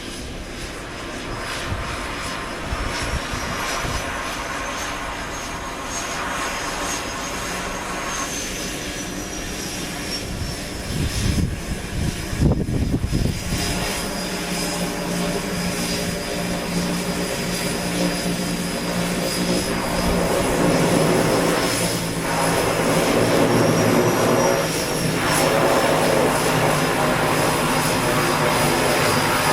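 Twin PT6A turboprop engines of a Viking DHC-6-400 Twin Otter running, a high turbine whine over a steady propeller hum. The sound grows louder about halfway through and again a few seconds later.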